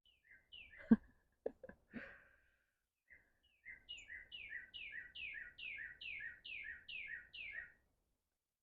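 A songbird sings a rapid run of about ten repeated two-part notes, each a downward-slurred whistle followed by a lower short note, at roughly two or three a second. Before it, a few knocks are heard, the loudest about a second in.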